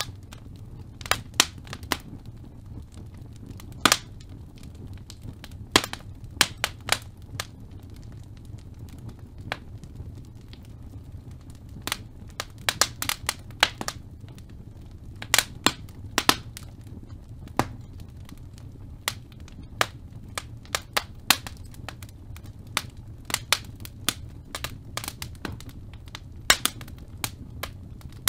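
Irregular sharp clicks or snaps, coming singly and in loose clusters, over a steady low hum.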